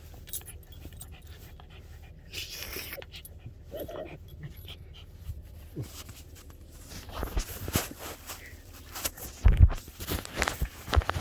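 Pet dog panting during play, followed in the last few seconds by a run of knocks and thumps, the loudest a heavy thump about nine and a half seconds in.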